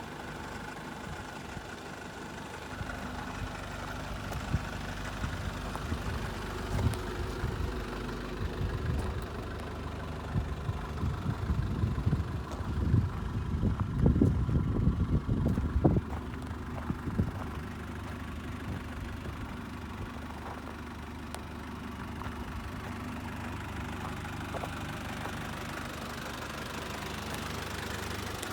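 Nissan Caravan's QD32 3.2-litre four-cylinder diesel engine idling with a knocking diesel clatter. It grows louder and more uneven for a few seconds in the middle.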